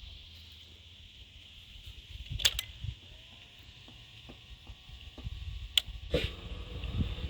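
A few sharp clicks and a faint, steady whine from a 2012 Honda CBR1000RR (SC59) sportbike being readied to start. About six seconds in, a low rumble starts to build as the engine is cranked.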